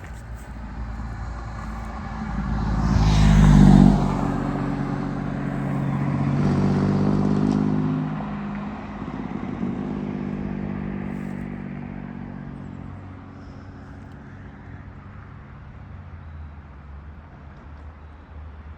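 Motor vehicles passing by: an engine swells to its loudest about four seconds in and drops off suddenly, then two more pass more softly and fade away.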